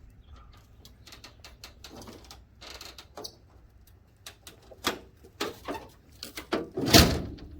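A scatter of clicks and knocks, busier and louder in the second half, with one loud bang about seven seconds in.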